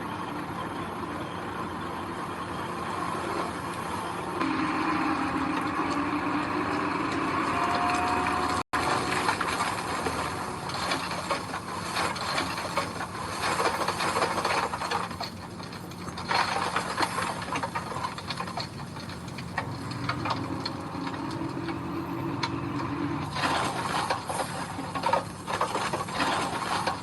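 Diesel engine of heavy earthmoving machinery running steadily, with bursts of metal clanking and rattling in the second half.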